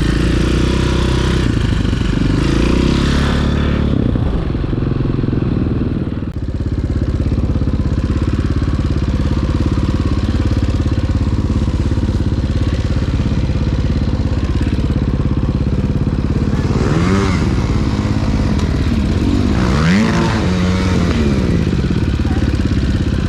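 Dirt bike engine running steadily, then revved up and back down twice near the end.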